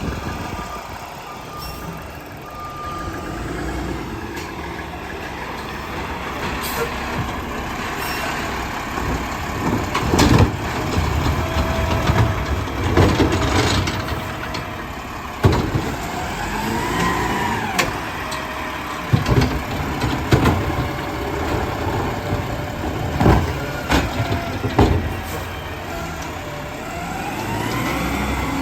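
Garbage truck running while its hydraulic packer compacts trash, with repeated clanks and bangs and a few squeals that rise and then fall in pitch.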